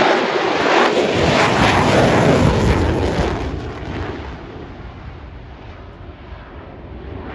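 Lockheed Martin F-35A Lightning II jet, its single Pratt & Whitney F135 turbofan roaring loudly as it passes. The roar is loudest over the first three seconds, then fades steadily as the jet draws away.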